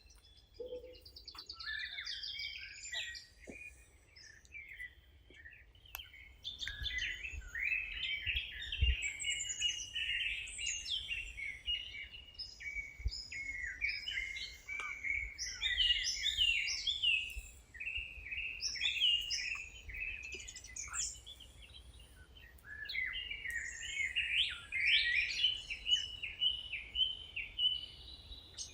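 Wild songbirds chirping and singing, many short quick notes overlapping. The song is sparse at first and becomes a dense chorus from about six seconds in.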